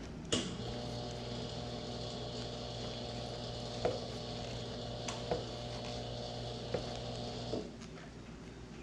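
A steady machine hum with a faint high whine that starts with a click and cuts off suddenly about a second before the end, with a few light clicks and clinks while it runs.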